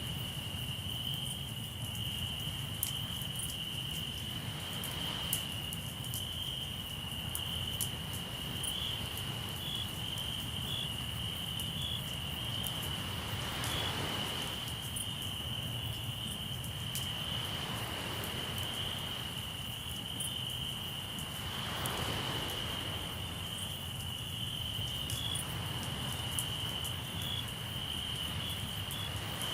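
Crickets chirping in a steady high-pitched chorus, with a campfire's small crackles and waves washing in on the shore every few seconds.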